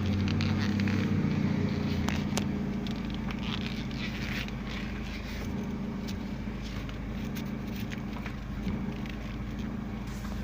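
Hyundai Accent's engine idling just after being started. The idle is a little louder for the first couple of seconds, then settles to a steady hum, with a few faint clicks.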